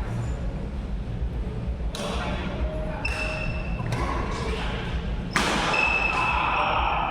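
Badminton rally: sharp racket-on-shuttlecock hits about once a second, with brief high squeaks of court shoes. The loudest hit comes about two-thirds of the way through and is followed by a spell of louder noise.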